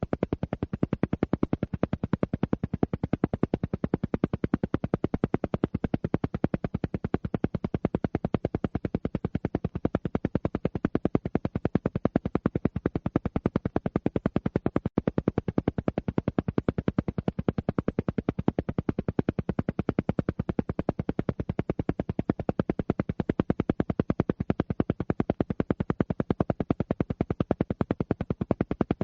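Alpha-wave brainwave-entrainment audio: a low tone pulsing on and off rapidly and evenly, many pulses a second, without a break.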